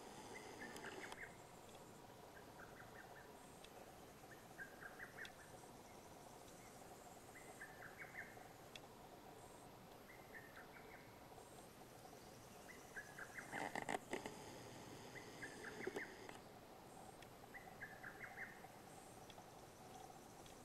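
Faint, distant bird song: a short trilling call repeated about every one and a half to two seconds over a quiet background. A brief louder rustle comes about two-thirds of the way through.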